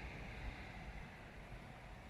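Faint outdoor background: a low, unsteady rumble with a light hiss, with no distinct event.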